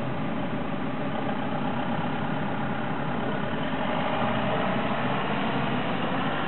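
Steady rumble of a passing rolling-highway freight train carrying lorries on low-floor wagons. A car's engine comes close and grows a little louder near the end.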